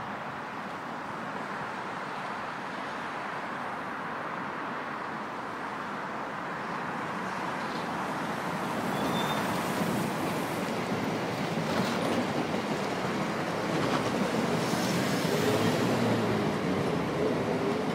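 Irish Rail Class 22000 InterCity diesel railcar coasting past, the rumble of its wheels on the rails growing louder as it approaches and loudest as it goes by. A faint wheel squeal comes in near the end.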